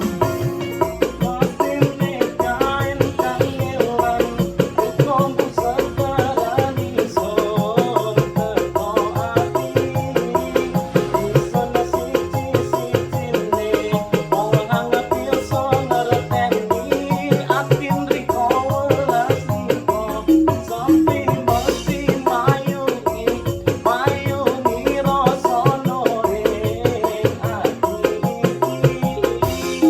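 Dangdut koplo instrumental played on an arranger keyboard: a wandering melody line over the keyboard's busy, steady drum and percussion rhythm.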